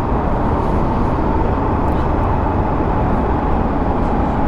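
Triumph Tiger 1200 GT Explorer motorcycle cruising at speed: a steady rush of wind and road noise over the engine, with a faint steady whine.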